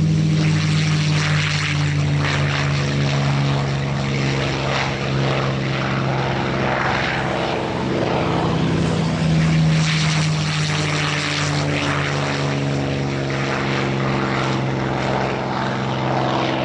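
P-51D Mustang's Packard Merlin V12 engine running loud and steady at takeoff power as the fighter takes off, with a deep engine drone under propeller noise that swells slightly now and then.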